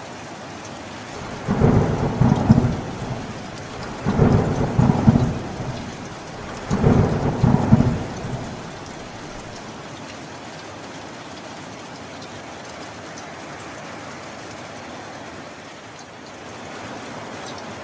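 Steady rainfall with three rolls of thunder in quick succession, each rumbling for a second or more; after the third the rain goes on alone.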